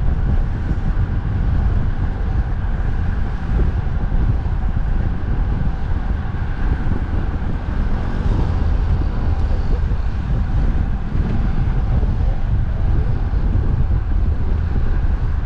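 Strong wind buffeting the microphone in a steady, heavy rumble, over the continuous noise of road traffic.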